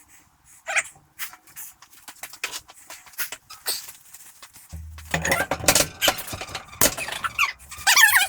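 Clinks, taps and knocks of metal parts and hand tools being handled, with a short high-pitched wavering squeal just before a second in and a louder one near the end, over a low steady hum in the second half.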